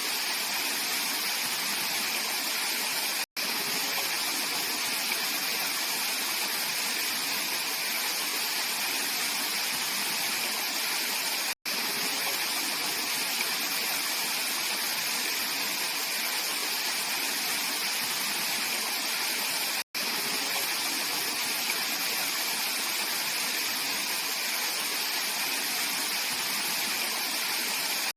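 Mountain valley stream running over rocks: a steady, even rush of water. The sound drops out for an instant three times, about eight seconds apart.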